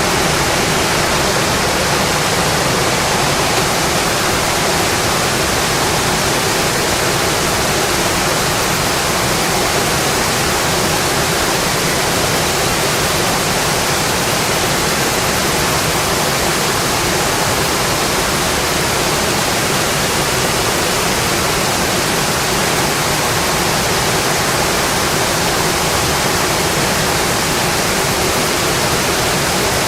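Steady rain falling, a dense, even hiss with no separate drops or crackles standing out.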